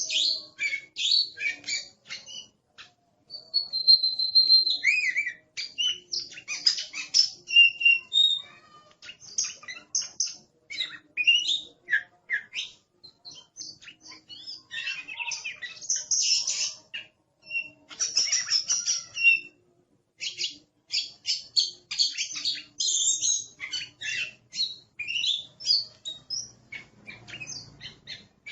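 Oriental magpie-robin (kacer) singing a loud, fast, varied song of chirps, whistles and harsh notes in quick succession, with only brief pauses.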